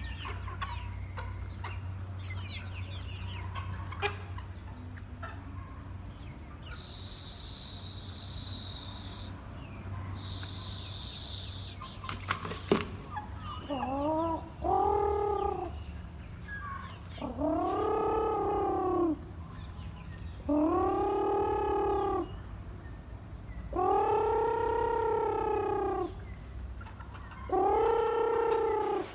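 A chicken giving five long drawn-out calls, each a second or two long and arching up and down in pitch, repeated every few seconds through the second half. Before them there is only a steady low hum and two short bursts of hiss.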